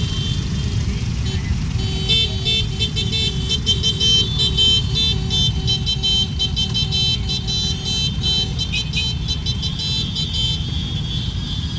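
Motorcycles rumbling past in a parade, with a string of short electronic beeping tones from a horn or alarm from about two seconds in until shortly before the end.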